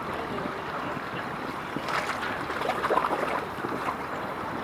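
Wind buffeting the microphone over a steady outdoor rumble, slightly louder a couple of seconds in.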